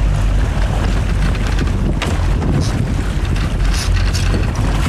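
Boat engine running steadily, with wind buffeting the microphone and a single sharp knock about two seconds in.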